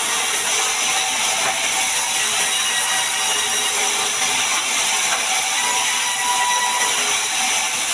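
Bandsaw mill cutting a large mahogany log: a steady, even sawing noise with no break, with a faint whine coming in near the end.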